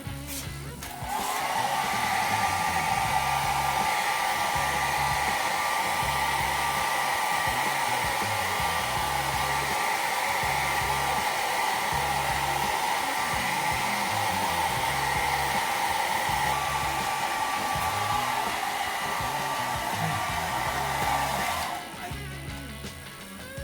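A hand-held electric blower of the hair-dryer kind running steadily with a whine. It switches on about a second in and cuts off suddenly near the end, over background music with a steady beat.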